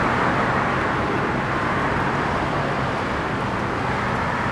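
Steady rush of road traffic with a faint low hum under it, with no single event standing out.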